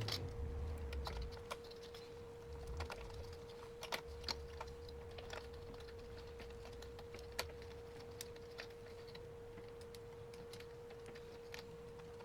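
Keys of an Olympia Splendid 33 manual portable typewriter being struck at an uneven pace, giving faint, sparse clicks, over a faint steady hum.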